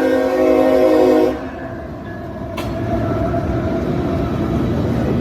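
Locomotive air horn sounding a chord, which cuts off a little over a second in, followed by the steady rumble of the passing train.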